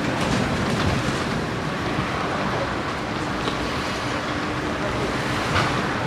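Tram running on its rails: a steady rumbling noise with a few sharp clicks, and a faint steady tone coming in about halfway through.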